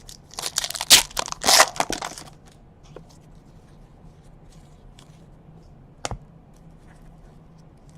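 Trading card pack wrapper being torn open and crinkled, a dense crackle for about two seconds, followed by faint clicks of cards being handled and one sharp knock about six seconds in.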